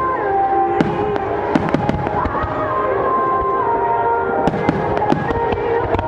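Aerial fireworks bursting, with many sharp bangs and crackles in quick succession, over music of held notes that change pitch every second or so.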